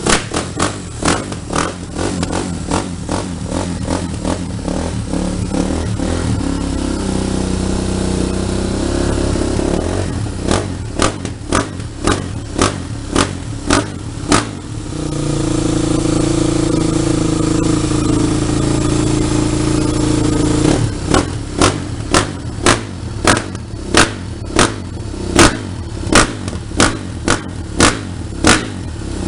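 Kawasaki KX450F's single-cylinder four-stroke engine running, blipped over and over on the throttle in sharp revs about two a second. Twice in the middle the revs are held steady for several seconds.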